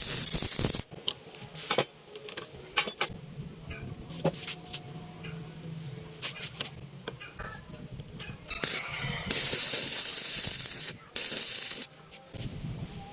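Metal workshop parts clicking and clinking as they are handled, with three short bursts of hissing noise, the longest about a second and a half.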